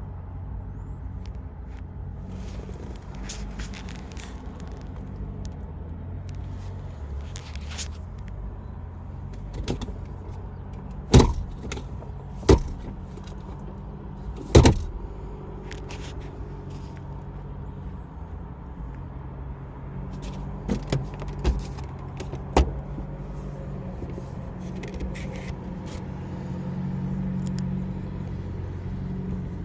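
A steady low hum with scattered sharp knocks and clicks: three loud knocks close together in the middle and a cluster of smaller clicks later on.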